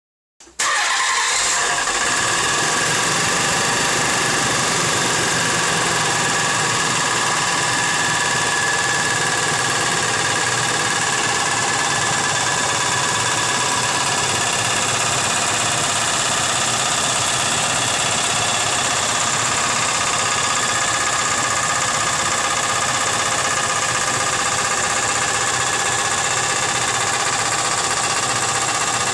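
Nissan 300ZX (Z32) VG30DE V6 engine running at a steady speed with a rapid, repeated knocking tick. The owner can't tell whether it is rod knock or bad lifters; after engine work a slight tick had quieted almost to nothing before it came back like this.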